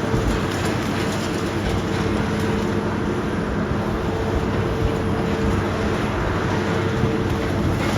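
Heavy demolition machinery running steadily, a constant engine noise with a held tone and no change in level.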